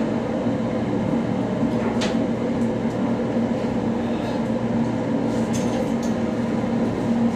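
Steady machinery drone with a low, constant hum, with a few faint light clicks.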